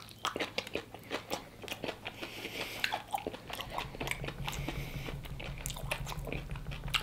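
Close-up mouth sounds of biting into and chewing crispy fried chicken: repeated wet, crunchy chews and clicks. A low steady hum joins about four seconds in.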